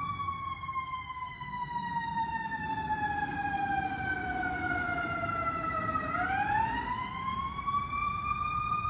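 Fire apparatus siren in a slow wail: the pitch falls steadily for about six seconds, then climbs back up over the last few seconds. A low rumble of the truck and road runs underneath.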